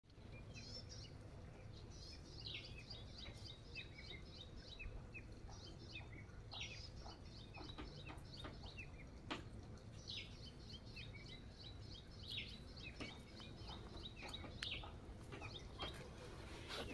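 Small birds chirping and twittering repeatedly over a low, steady background hum, with a few faint taps and scrapes of a hand trowel digging in garden soil.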